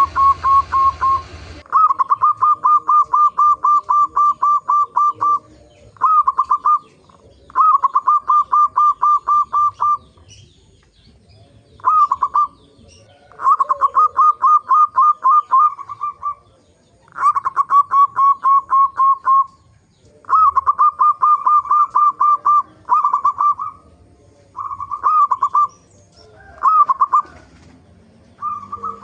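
Zebra dove (perkutut) song: runs of rapid, evenly repeated cooing notes, about a dozen phrases, each broken off by a short pause.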